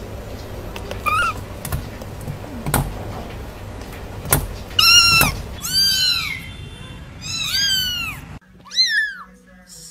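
Kittens mewing: a run of short, high, arching mews, several loud ones in quick succession in the second half. Two sharp knocks come before the loud mews.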